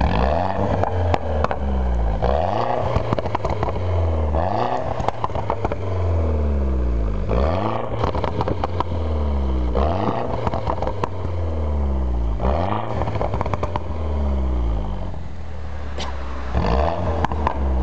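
Mini Cooper S's turbocharged four-cylinder through a JCW Step 2 exhaust, revved and released about seven times, each rev rising then falling back towards idle. Sharp crackles and pops come from the exhaust as the revs drop.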